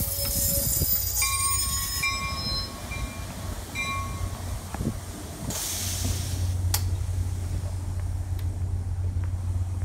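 Altamont Corridor Express (ACE) commuter train at a station: a few short, high-pitched wheel squeals over a low steady rumble. About five and a half seconds in there is a hiss lasting about a second, and the low rumble then grows stronger.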